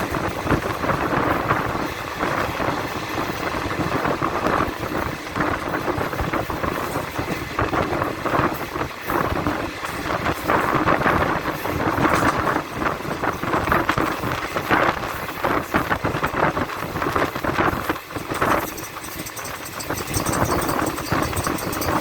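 A moving passenger train: its steady running noise of wheels on the track, with a dense, irregular clatter.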